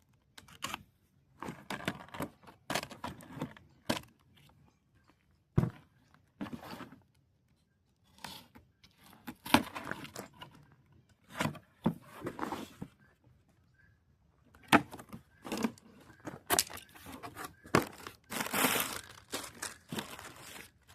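Cardboard box and plastic packaging being opened and handled: irregular tearing, crinkling and rustling with sharp knocks, coming in short bursts with pauses between them.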